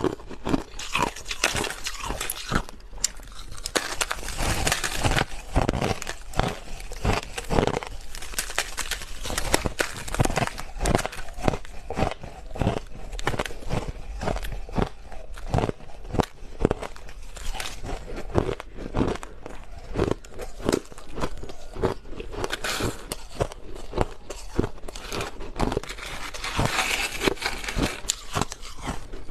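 Crushed ice being bitten and chewed close to the microphone: a dense run of irregular crunches and crackles, several a second.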